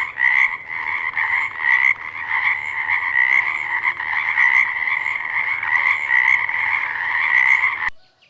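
A chorus of frogs calling, a dense pulsing din that cuts off suddenly near the end.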